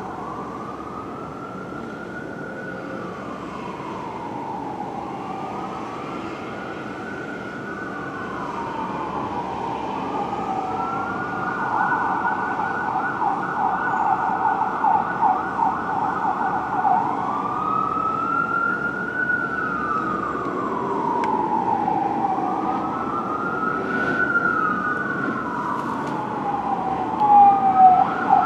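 Fire engine siren wailing, sweeping slowly up and down in pitch. Partway through it switches for several seconds to a fast warble, then returns to the slow wail. It grows steadily louder as the responding engine approaches.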